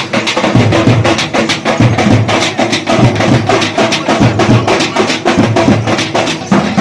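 Fast, loud drumming in a dense, driving rhythm, with music throughout.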